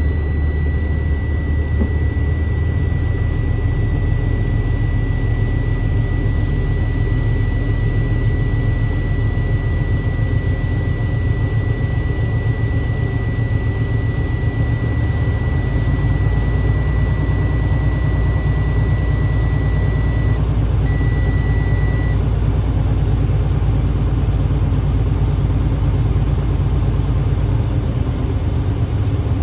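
Tractor-trailer truck's diesel engine idling steadily inside the cab while its air brake system builds pressure. The engine note changes slightly about halfway through. A steady high-pitched warning tone sounds over it and cuts off about two-thirds of the way in, with one short return before it stops.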